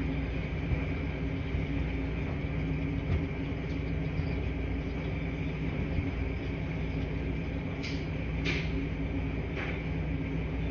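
Laundry-room ambience: washing machines running with a steady low hum and rumble, and three brief higher swishes in the last few seconds.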